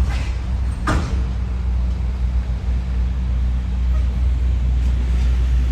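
Steady low rumble of an idling motor vehicle engine, with a brief short sound about a second in.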